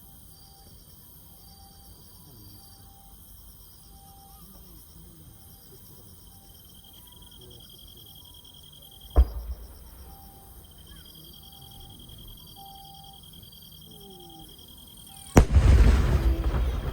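Aerial fireworks shells bursting: one sharp bang about halfway through, then a louder bang near the end that trails off in a rumbling crackle. Insects chirp steadily underneath, about two notes a second.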